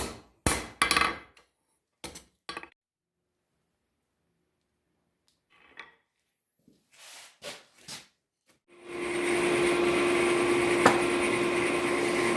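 Hammer blows on steel: a quick run of strikes at the start, then a pause. About nine seconds in, a steady machine hum with a constant tone starts and keeps running.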